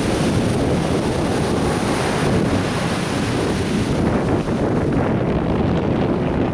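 Atlantic Ocean surf washing onto a beach, with wind buffeting the microphone as a low rumble. The high hiss of the wash eases about four seconds in.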